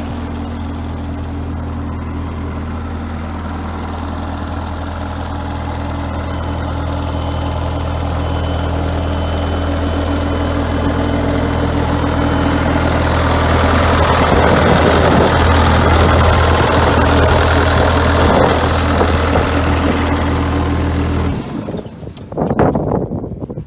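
Bobcat T110 track skid steer's diesel engine running steadily, growing louder through the middle, then the engine sound cuts off suddenly near the end.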